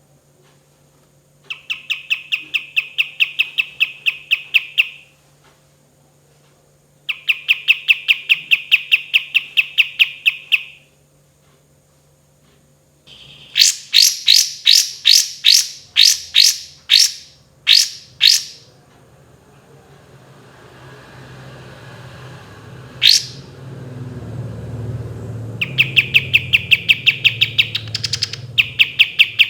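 Kapas tembak songbird singing: bouts of a fast, even trill of sharp chirping notes, then in the middle a run of louder, sharper single notes, the 'shots' this song is prized for, before the trills start again near the end. A low rushing noise swells up beneath the song in the second half.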